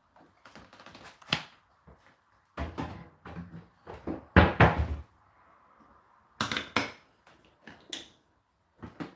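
Clicks and knocks of a Whirlpool dishwasher's door and racks being handled, with a cluster of heavier clunks around halfway through.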